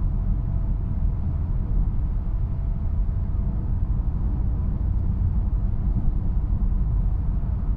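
Steady road and drivetrain noise inside the cabin of a 2018 BMW 320i (F31) on the move: a low, even rumble with a faint steady high tone above it.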